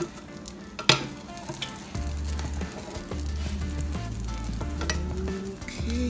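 Omelet sizzling softly in a nonstick frying pan over low heat, with one sharp clack of a utensil against the pan about a second in. Background music with a low bass line comes in about two seconds in.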